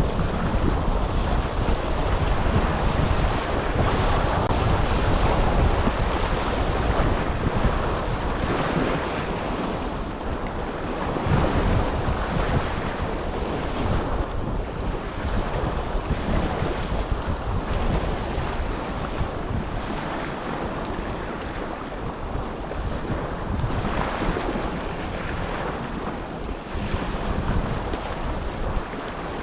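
Small waves washing in on the Dead Sea shore, rising and falling every few seconds, with wind buffeting the microphone.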